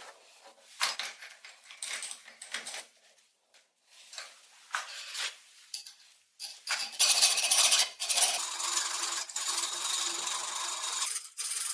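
Metal parts clicking and scraping as they are handled, then a small power tool runs for about four seconds, loudest as it starts, before stopping near the end.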